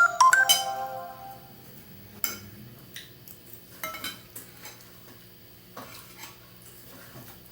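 Cutlery clinking against dishware: a quick run of ringing clinks at the start, then scattered light taps and clicks of a utensil on a plate.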